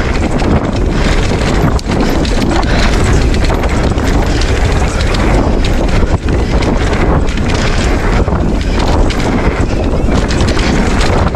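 Specialized Stumpjumper EVO mountain bike ridden fast down a dirt trail: a steady clatter of tyres, chain and frame knocking over roots and bumps, under loud wind noise on the microphone.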